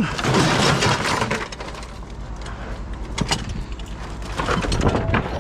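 Scrap metal pieces being handled and sorted: a rattling scrape at first, then scattered knocks and clanks.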